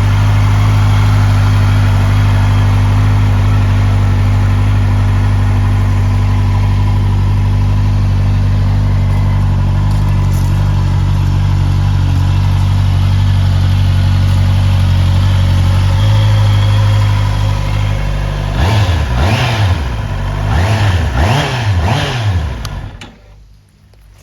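Honda CB650R's 649 cc inline-four engine idling steadily, then revved in several quick throttle blips that rise and fall, before it is switched off near the end.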